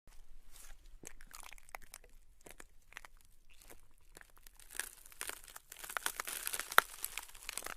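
Ice cracking and crunching: a dense run of sharp crackles and snaps that starts abruptly and thickens and grows louder about five seconds in.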